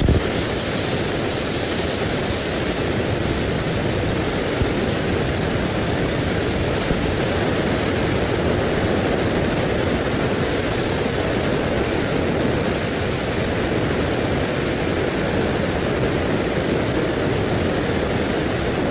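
ATC CNC machine with its saw blade running, a steady even noise throughout.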